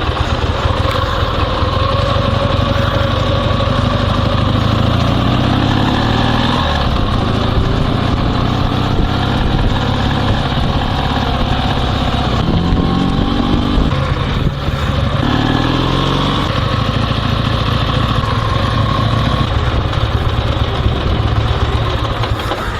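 Dnepr MT16 sidecar motorcycle's flat-twin engine running under way, its revs climbing and dropping several times as it pulls away and picks up speed.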